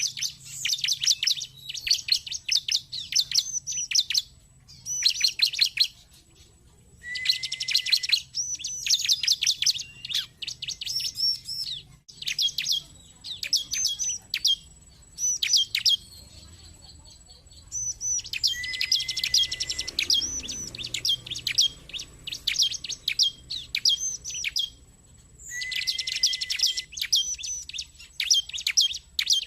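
Bar-winged prinia (ciblek) song: phrases of rapid, high chirping notes several seconds long, some opening with a short flat note, separated by brief pauses.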